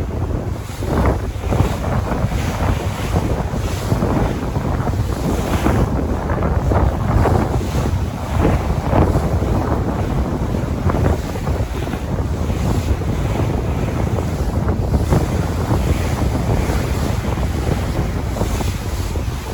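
Sea waves washing and surging irregularly, with wind buffeting the microphone as a constant low rumble.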